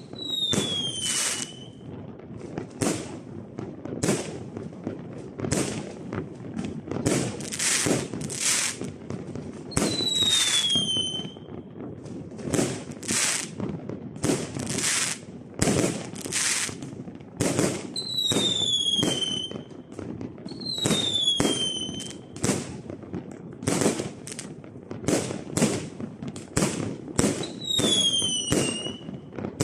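Fireworks display: aerial shells bursting one after another with crackling, several times joined by a short whistle that falls in pitch.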